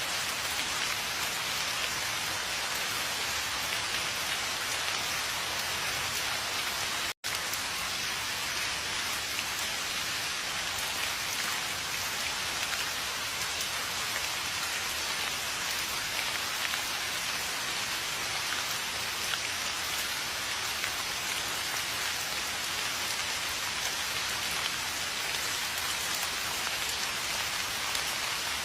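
Steady rain falling on surfaces, an even hiss that does not change. The sound cuts out completely for a split second about seven seconds in.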